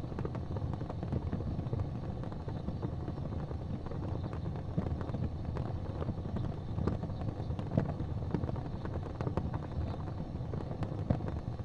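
Fire burning in a fireplace: a steady low roar of flames with frequent sharp crackles and a few louder pops.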